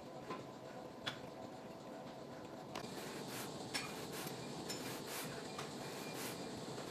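Faint room background with a few light clicks and clinks, the sharpest about a second in and another near four seconds in.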